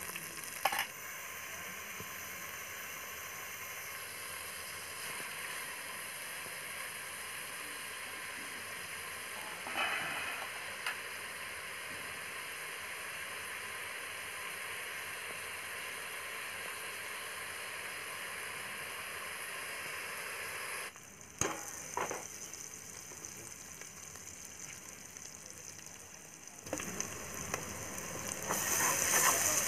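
Onions and tomatoes frying in oil in an aluminium pot: a steady sizzling hiss that drops away about two-thirds of the way through, with a few clinks, then comes back louder near the end as a steel ladle stirs and scrapes the pot.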